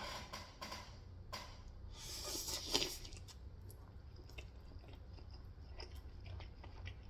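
Close-miked eating sounds: wet chewing and small mouth clicks, with a louder, noisier stretch about two to three seconds in.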